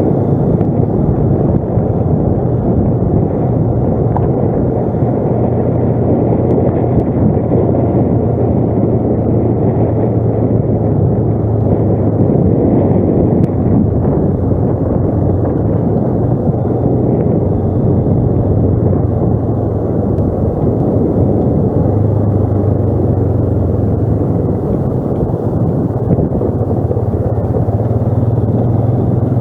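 An ATV engine running steadily under way, its pitch shifting slightly now and then.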